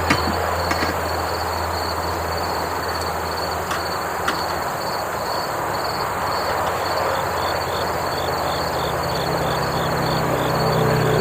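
Insects chirping in a steady rhythm of several pulses a second, a second chirping joining about halfway, over a continuous rushing background noise with a low hum that fades out. A few light clicks near the start.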